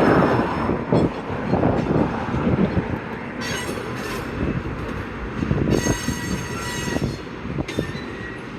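Freight train cars rolling through a rail yard with a steady rumble and scattered clanks. High-pitched wheel squeal comes and goes, around the middle and again a little later.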